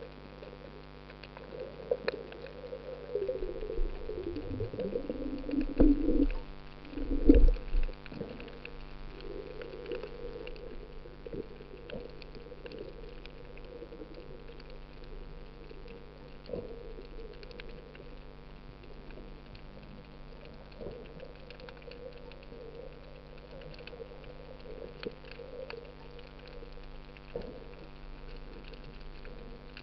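Muffled water sounds with a few knocks and thumps, loudest about six to eight seconds in, over a steady low hum.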